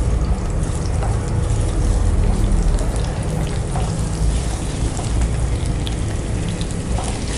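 Seafood mushrooms sizzling in hot oil in a frying pan as they are stirred with a spatula: a steady crackling hiss while they are sautéed to wilt.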